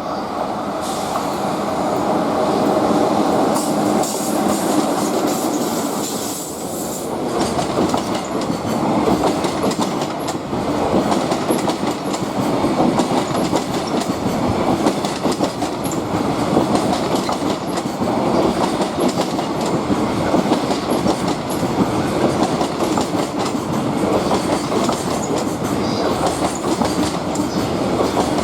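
A freight train rolling past at close range, its wagons' wheels clicking steadily over the rail joints with some wheel squeal. There is a brief dip in level about six seconds in, then the clatter continues evenly.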